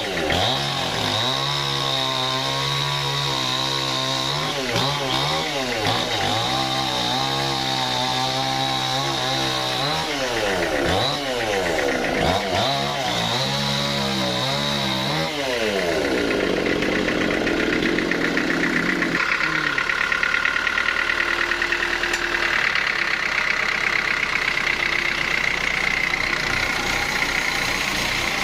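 An engine-driven wood saw running and cutting timber. Its engine pitch dips and recovers several times as the blade takes load, then gives way to a rougher, steady cutting sound with a high ringing tone from about halfway through.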